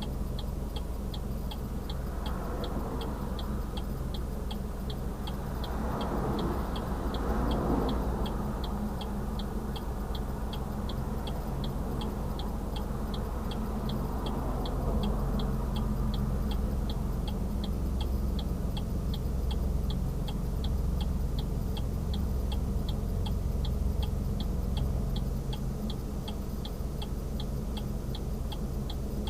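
Car cabin noise while driving: a steady low road and engine rumble, with an even ticking about twice a second throughout.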